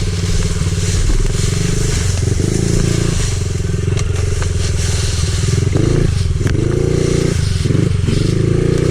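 Pit bike's small single-cylinder engine running under throttle. Its revs rise and fall several times in the last few seconds.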